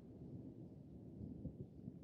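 Faint, low rumble of thunder.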